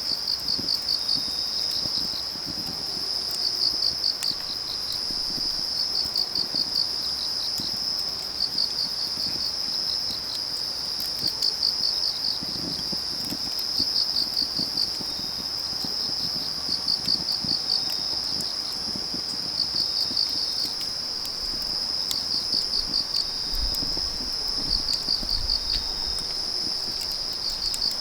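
Autumn night insects: a steady high trill, with a cricket chirping in short runs of quick pulses about every two seconds. Underneath it, faint irregular crackling of burning firewood.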